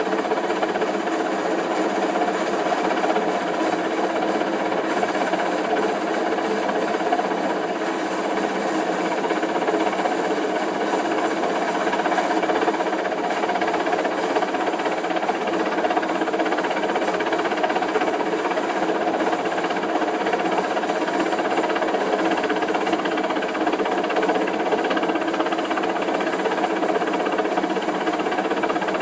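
Helicopter running steadily, a dense, even engine and rotor drone that does not change.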